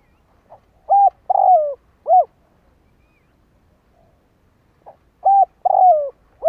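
Spotted dove cooing: two phrases, each a soft short note followed by three loud coos, the middle coo longest and sliding down in pitch. It is the male's territorial call, here from a caged decoy bird used to draw in wild doves.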